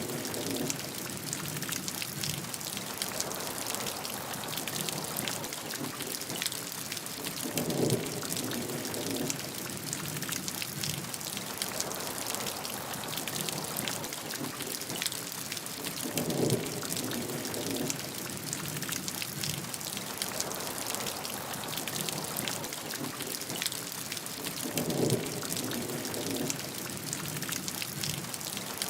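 Steady rain: an even hiss with many separate drops ticking on a surface. A short, deeper swell comes back about every eight seconds, three times.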